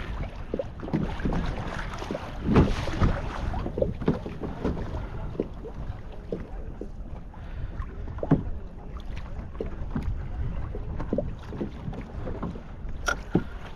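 Water lapping against a kayak's hull with wind on the microphone, broken by scattered small knocks and one louder knock near the end.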